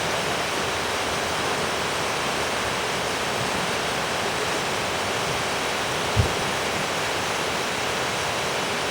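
Steady rush of a waterfall, an even, full noise of falling water, with a brief low thump about six seconds in.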